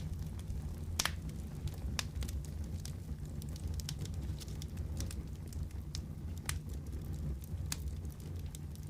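Wood fire crackling in a fireplace: a steady low rumble with sharp pops and snaps at irregular moments, the loudest about a second in.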